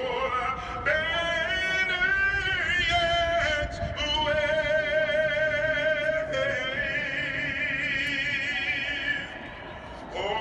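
A solo voice singing long, held notes with a wide vibrato in an operatic style, moving between several pitches and fading near the end.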